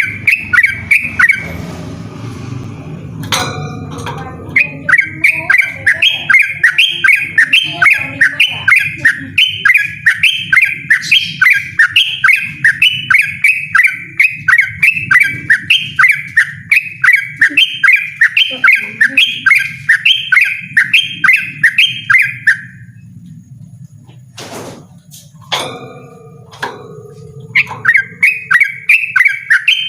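Yellow-vented bulbul singing a fast, insistent string of loud repeated chirps, about three or four a second. The song breaks off briefly near the start and for about five seconds late on, when only a few clicks are heard, then starts again.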